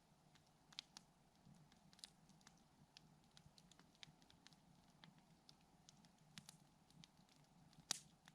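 Faint crackling of a wood campfire: scattered sharp pops and snaps, irregular, with one louder pop near the end.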